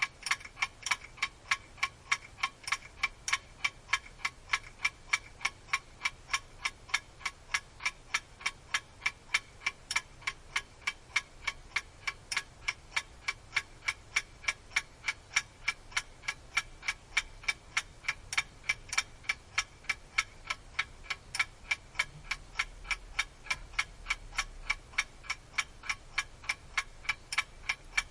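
A mechanical clock ticking steadily and quickly, about three even ticks a second.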